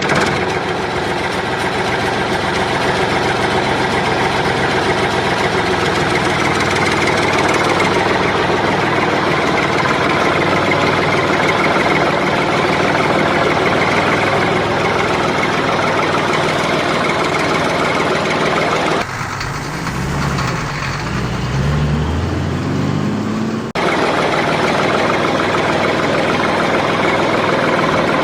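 Diesel engine of construction machinery running steadily. About two-thirds of the way through, the sound switches for a few seconds to a lower engine note that rises in pitch several times, then the steady running returns.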